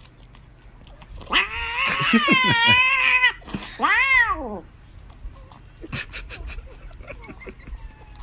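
Domestic cat yowling: a long wavering call about a second in, then a shorter meow that rises and falls in pitch.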